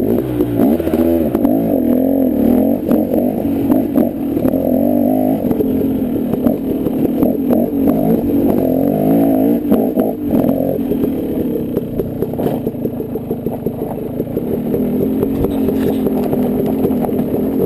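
Dirt bike engine running under way off-road, its revs rising and falling, with frequent clattering knocks.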